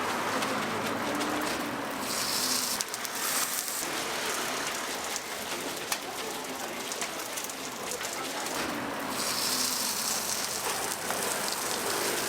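Oil sizzling on a griddle as sorghum pancakes (susu bukkumi) fry, the sizzle swelling louder twice.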